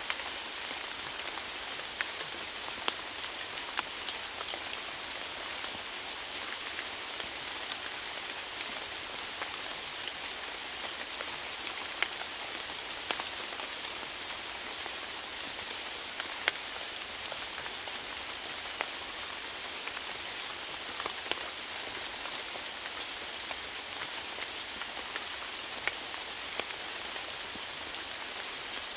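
Steady rainfall: an even hiss of rain with individual nearby drops ticking out sharply every second or few.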